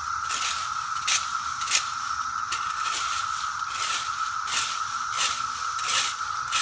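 A steady, high-pitched buzzing chorus of periodical cicadas, with a rake scraping through piles of dead cicadas in short strokes about every three-quarters of a second.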